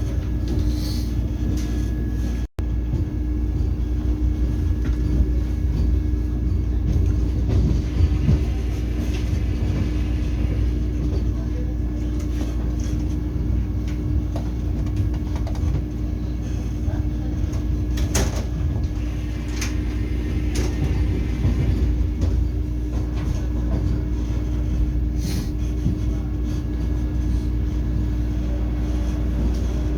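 Vande Bharat Express train running, heard from inside the coach: a steady low rumble with a constant hum, and a few sharp knocks from the carriage now and then. The sound breaks off very briefly about two and a half seconds in.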